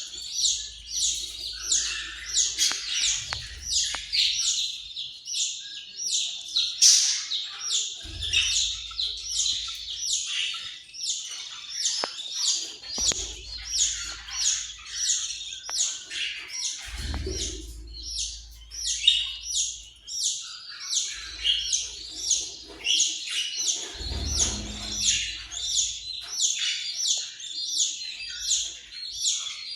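Pet budgerigars (Australian parrots) chirping and warbling without pause in rapid short high notes, with a few faint low rumbles underneath.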